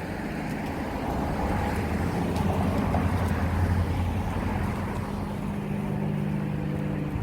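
A motor engine running with a steady low hum over a bed of steady noise; the hum settles into a clearer, even pitch about halfway through.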